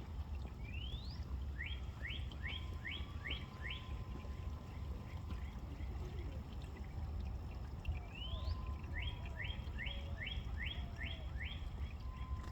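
A songbird singing the same phrase twice: a rising whistle, then a quick run of six or seven short repeated notes. Under it runs a steady low rumble.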